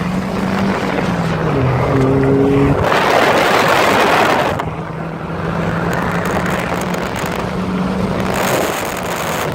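Car engine with its mufflers cut off, accelerating hard through the gears to about 100 km/h. The revs drop and climb again at a gear change in the first few seconds. A loud rush of wind over the microphone comes in for about two seconds, then the engine holds a steady drone.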